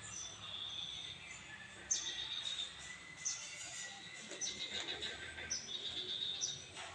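Birds chirping: many short, high-pitched chirps in quick succession, several sweeping down in pitch.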